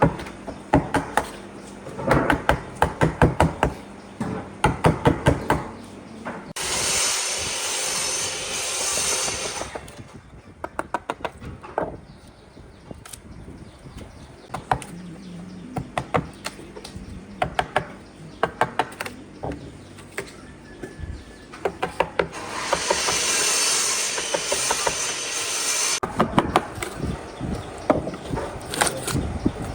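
Hammer blows on wood, coming in quick runs of strikes. Twice a steady rushing noise from a tool runs for about three seconds and then stops.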